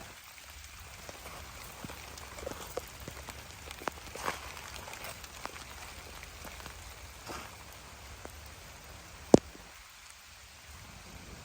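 Rain falling, with scattered single drops striking close by; one sharp, much louder drop hits about nine seconds in.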